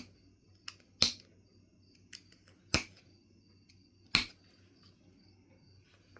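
Knife River Flint being knapped: four loud, sharp clicks of flakes being struck or pressed off, roughly every second and a half, with a few fainter ticks between them.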